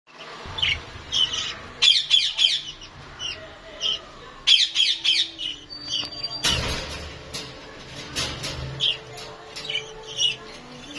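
Birds chattering in quick bursts of high chirps and squawks, with a few sharp clicks in between.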